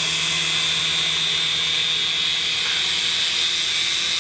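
Small toy remote-control helicopter flying: its electric motor and rotors make a steady high-pitched whine.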